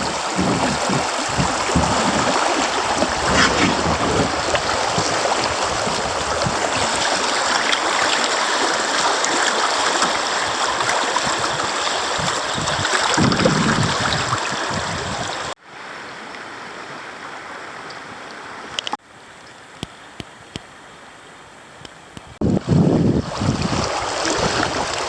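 Creek water rushing steadily, with wind buffeting the microphone now and then. The sound drops abruptly to a quieter flow about two-thirds of the way through, changes again a few seconds later, and comes back louder near the end.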